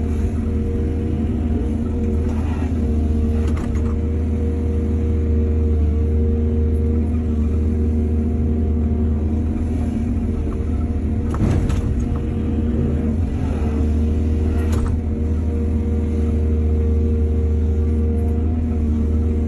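Hydraulic excavator's diesel engine running steadily with a deep drone, with four short clanks spread through it.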